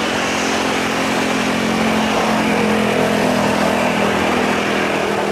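Boeing 737-800's CFM56 jet engines running loud and steady, with a low hum that swells slightly midway.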